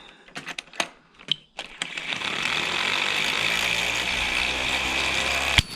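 A few clicks of a tool being fitted, then a power tool runs steadily for about three and a half seconds on the outboard's flywheel, turning the wrong way, and stops with a sharp clack.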